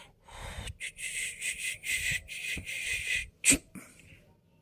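A cat's short wheezy, snuffling breaths in quick succession, then one sharp sneeze about three and a half seconds in.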